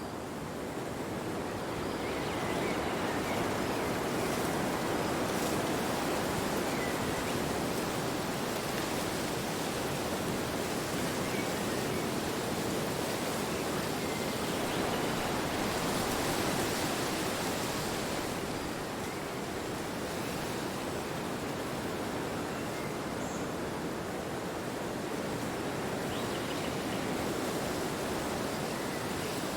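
Wind blowing steadily, a full rushing noise that swells a little and eases slightly about two-thirds of the way through.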